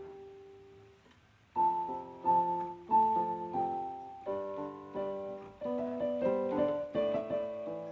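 Background music: a solo piano melody, with a single faint note at first and the playing picking up about a second and a half in, a series of sustained notes.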